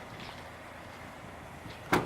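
Faint steady background noise, then one sharp thump near the end.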